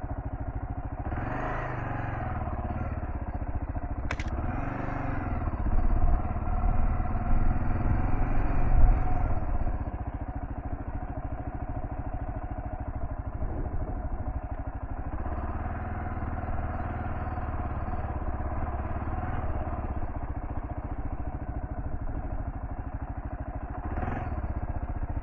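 Kawasaki KLR650's single-cylinder engine running steadily as the bike is ridden over a dirt trail. It gets louder and rougher for a few seconds near the middle, and there is a single sharp click early on.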